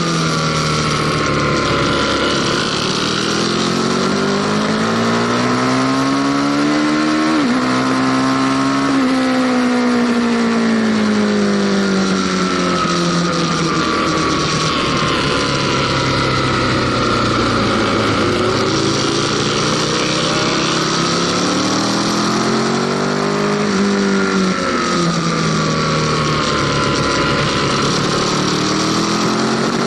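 Aprilia Tuono Factory motorcycle engine heard from on board, revving up through the gears with sudden pitch drops at upshifts, then winding down slowly as the bike slows before accelerating hard again. Wind rushes steadily over the microphone throughout.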